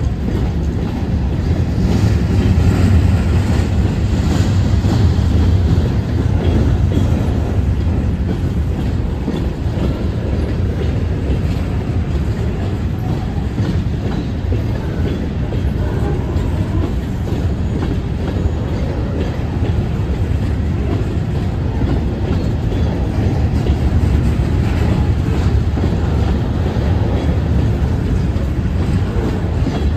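Loaded freight hopper cars of a stone train rolling past at a grade crossing: a steady, loud rumble with the clickety-clack of wheels over rail joints as car after car goes by.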